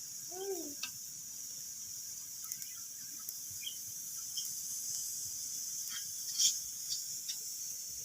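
Wood fire crackling in a fireplace: a steady hiss with scattered sharp pops, the loudest about six and a half seconds in. A brief squeaky note that rises and falls comes near the start.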